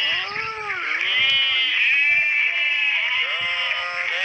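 Several animals calling over one another, a continuous run of overlapping cries that each rise and fall in pitch.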